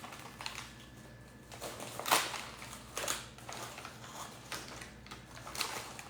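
Scattered light clicks and knocks from handling things at a kitchen counter. The loudest comes about two seconds in, another about a second later, and one more near the end.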